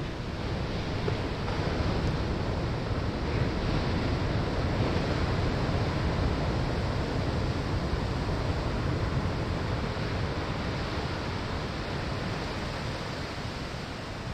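Ocean surf breaking on a sandy shore: the wash of a wave swells about a second in, holds for several seconds, then slowly fades away.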